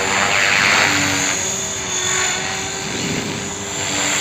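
Electric RC helicopter in flight with an E-Sky motor: a steady high motor whine and rotor blade noise that swells and fades in loudness as it flies about.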